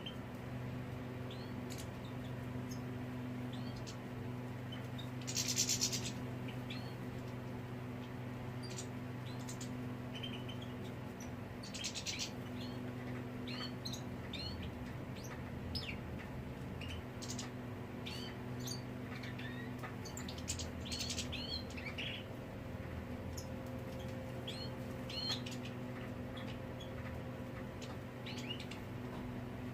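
Small songbirds chirping, with short scattered calls and a few louder buzzy trills, over a steady low electrical hum.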